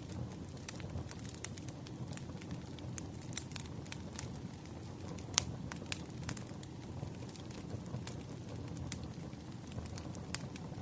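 Wood fire crackling: irregular sharp pops and snaps over a steady low rush, the loudest pop about five seconds in.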